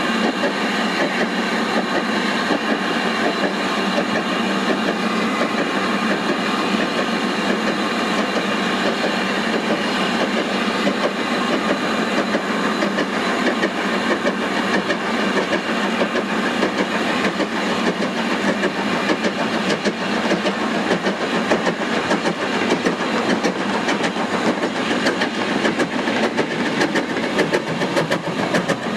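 Steam-hauled freight trains running past: a steady rush of noise with wagon wheels clicking over the rail joints, the clicks coming thicker in the second half.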